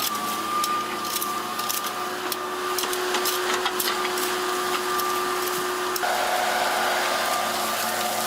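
A machine running steadily, with a constant high whine, a hiss and scattered clicks and knocks.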